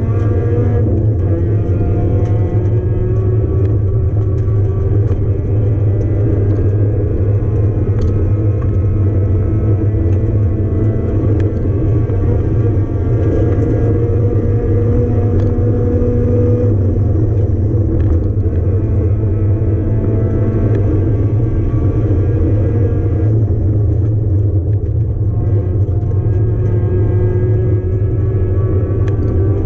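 A 1994 Mazda Miata's 1.8-litre four-cylinder engine running hard under full-throttle racing, heard from inside the cabin over a heavy low rumble. Its pitch climbs and falls again and again as the car accelerates, changes gear and slows for corners.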